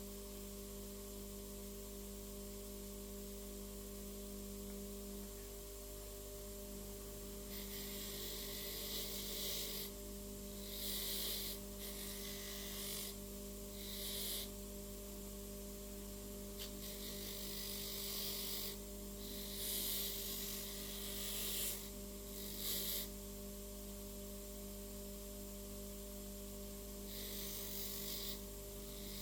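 Repeated rubbing or scraping strokes, each lasting a second or two, starting about a quarter of the way in, over a steady electrical hum.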